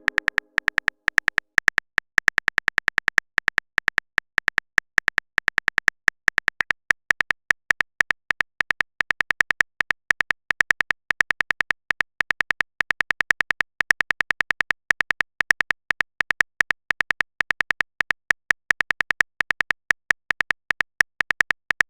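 Keyboard typing sound effect of a texting-story app: a long run of short, identical clicks, about five or six a second with brief pauses, as a message is typed out.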